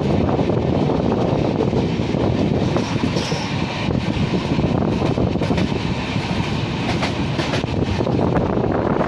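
Shatabdi Express passenger coach running, a loud steady rumble of wheels on the rails with scattered clicks and rattles.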